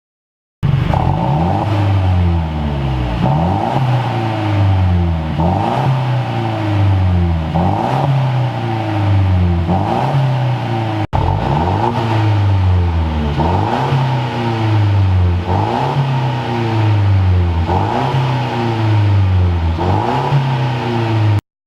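Mercedes-Benz C200 Coupe's turbocharged four-cylinder petrol engine revved up and down repeatedly through a custom full dual exhaust, about one blip every one and a half to two seconds, with a brief break about halfway.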